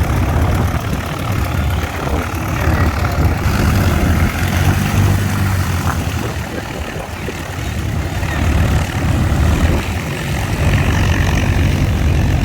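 Propeller aircraft engine running in flight, its low hum swelling and easing as the plane passes overhead.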